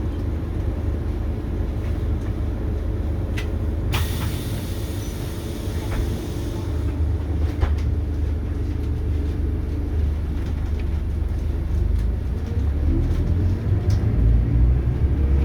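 Scania K280UB city bus with its DC9 diesel engine running under way, a steady low rumble that grows louder toward the end. A hiss lasting about three seconds starts about four seconds in.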